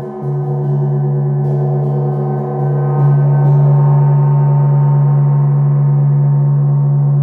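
Gong struck lightly several times in the first few seconds, then ringing on as a loud, steady low hum with many overtones. The sound swells about three seconds in.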